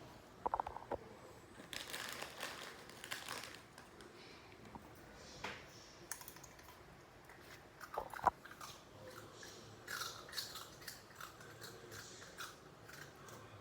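A little dog chewing and biting crunchy fried pork rinds (chicharrones): irregular crunches throughout, the loudest pair about eight seconds in.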